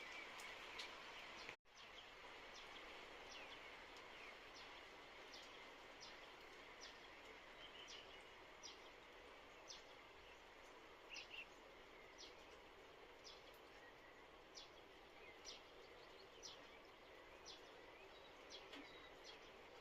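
Faint outdoor ambience: a steady low hiss with a small bird giving a short, high chirp about once a second.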